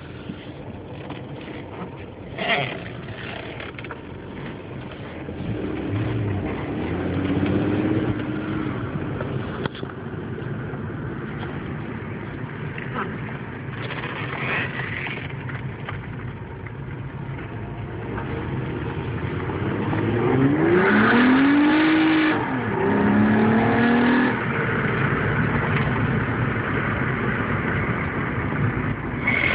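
2004 Nissan Maxima's 3.5-litre V6, fitted with a short ram intake, heard from inside the cabin under acceleration. The revs climb briefly about six seconds in. From about twenty seconds in they rise harder and louder, drop back at a gear change, and climb again.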